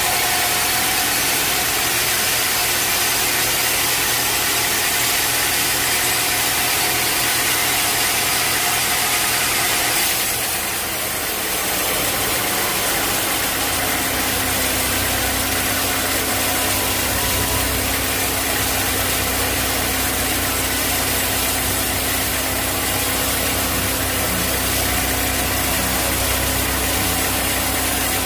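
Sawmill machinery running steadily. About ten seconds in the sound dips briefly, then settles into a lower steady hum.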